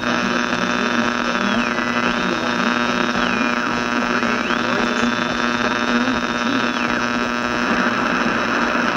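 Steady electrical hum with static from an old radio recording, with a thin high whistle that repeatedly dips in pitch and climbs back, three times, before falling away.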